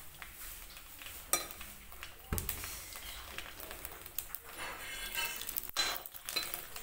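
Puri dough discs sizzling in hot oil in a kadai as they puff up. A metal ladle knocks and scrapes against the pan several times.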